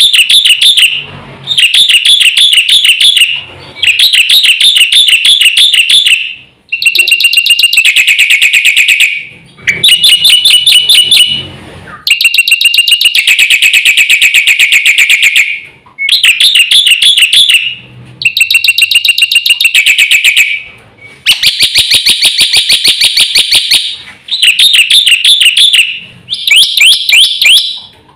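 Black-winged starling (jalak putih) singing loudly in fast, rapid-fire phrases of a second or two to three seconds each, separated by short pauses.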